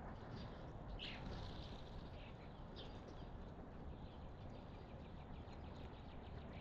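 Wild birds calling at a garden feeding spot: a few short high chirps in the first seconds, then a quick run of faint, evenly spaced high chips, over a steady low outdoor rumble.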